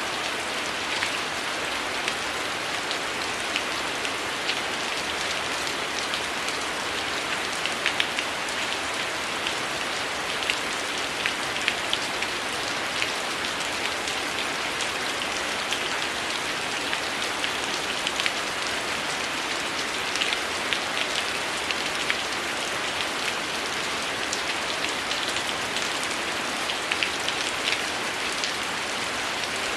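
Heavy rain falling steadily, a dense even hiss dotted with frequent sharp ticks and pops.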